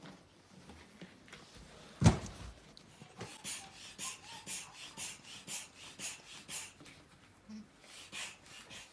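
A single loud thump about two seconds in, then an air pump inflating a balance ball: a rush of air with each stroke, about two strokes a second.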